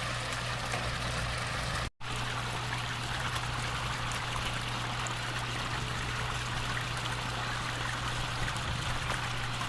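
Steady splashing and trickling of water running down a garden pond's waterfall and stream, with a steady low hum underneath. The sound cuts out for an instant about two seconds in.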